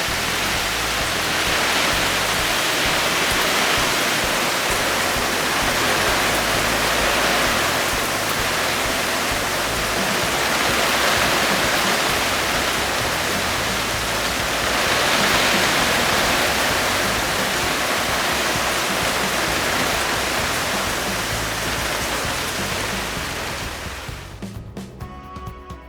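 Heavy typhoon rain pouring down steadily, its hiss swelling and easing every few seconds. Near the end the rain fades out and music comes in.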